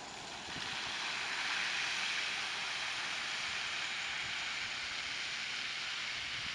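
Steady rushing noise of running water, swelling about half a second in and then holding even.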